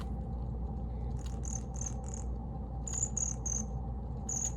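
Pet bird giving short, high-pitched chirps in quick runs of three or four, with pauses between the runs, over a steady low hum.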